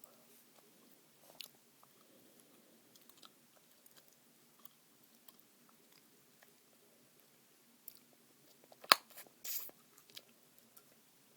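Chewing gum being chewed close to the microphone with small wet clicks and smacks, and one loud sharp gum snap about nine seconds in, followed by a short smack.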